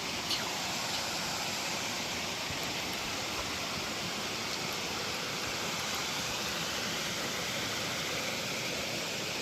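Small creek waterfall, water rushing and splashing steadily, with a brief click just after the start.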